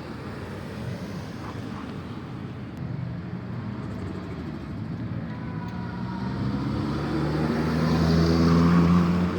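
A car's engine running as the car drives closer, getting steadily louder in the second half and loudest just before the end, then dropping away.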